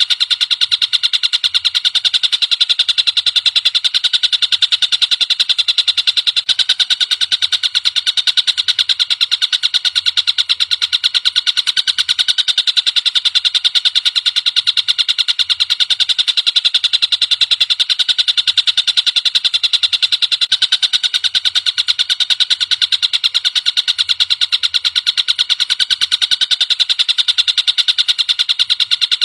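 Tengkek buto (collared kingfisher) calling in a loud, unbroken stream of rapid, sharp repeated notes.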